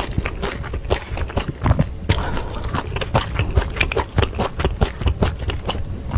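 Close-miked chewing of a mouthful of spicy stir-fried glass noodles: many quick, wet mouth smacks and clicks.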